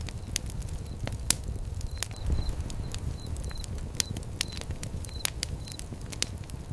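Fire pit crackling: frequent sharp pops and snaps over a steady low rumble of flames, with the rumble swelling briefly a little over two seconds in.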